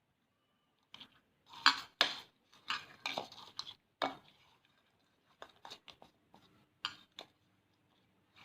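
Whole koi fish (climbing perch) being rubbed by hand with salt and turmeric in a bowl: irregular scratchy scrapes and clicks of the scaly fish against each other and the bowl, loudest in the first few seconds and thinning out near the end.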